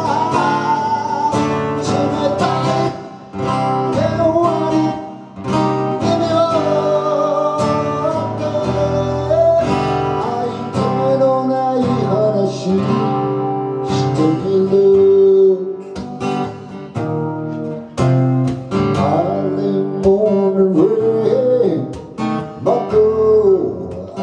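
Acoustic guitar strumming a folk song, with a voice singing over it.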